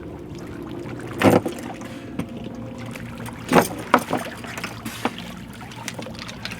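Water splashing and knocking against the boat as a swimmer climbs out of the water onto the boat: two loud splashes about two seconds apart, then a few lighter knocks, over a steady low hum.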